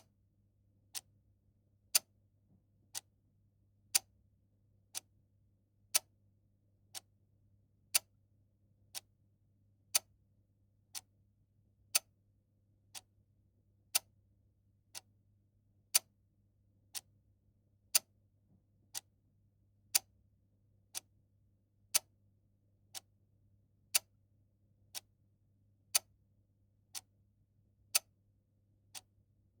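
Clock ticking steadily once a second, with sharp, dry ticks and every other tick a little louder, giving a tick-tock rhythm.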